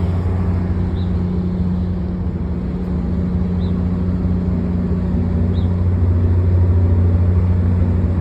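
Diesel commuter train standing with its engine idling, a steady low hum that grows slightly louder about six seconds in.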